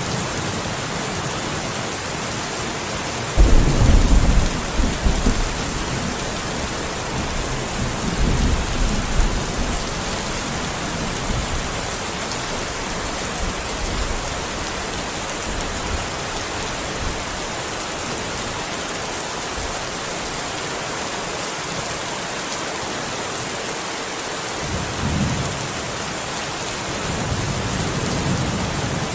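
Steady rain with thunder: a sudden loud crack and low rumble about three seconds in, a softer rumble a few seconds later, and more distant rumbles near the end.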